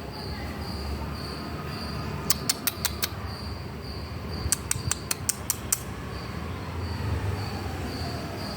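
Insect chirping in an even pulse about twice a second over a low rumble that grows toward the end. Two quick runs of sharp clicks or snaps cut in, about five at two seconds in and about seven more around four and a half seconds in.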